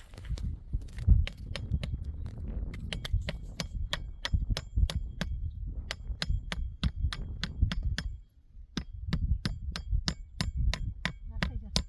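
Hammer striking in a quick, steady run of ringing metallic blows, about three a second, typical of driving nails into wood. There is a brief pause near eight seconds.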